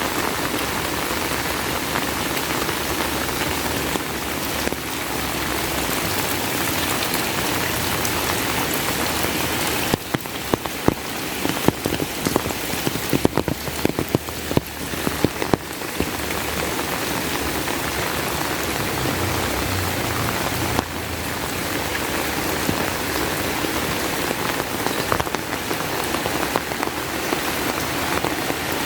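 Heavy rain falling steadily. For several seconds about a third of the way in, the hiss eases a little and many loud, separate drops strike close by.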